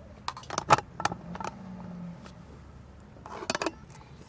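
Clinks and knocks of cooking gear and utensils being handled: a quick run of sharp strikes in the first second and a half, and another short run near the end.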